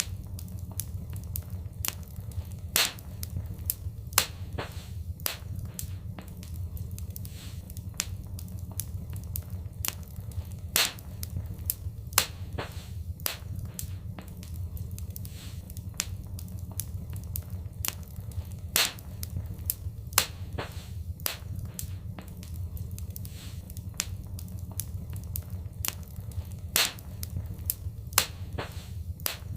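Fireplace fire crackling: frequent, irregular sharp pops and snaps, a few much louder than the rest, over a steady low rumble.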